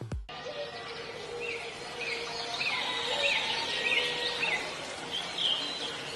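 Bird calling: a series of short chirps repeated about every half second, then a brief pause and one more call near the end, over a steady outdoor background hiss.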